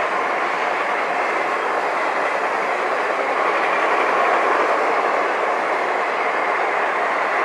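Passenger train passing at high speed: a steady rushing noise of wheels running on the rails, with no horn.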